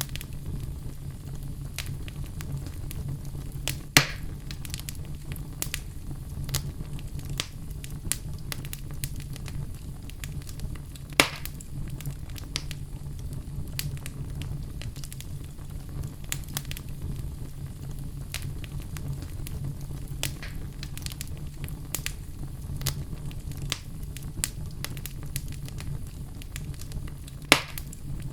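Wood fire crackling in a fireplace: a steady low rumble of flames with frequent small crackles, and three loud pops from the logs, about four seconds in, about eleven seconds in and near the end.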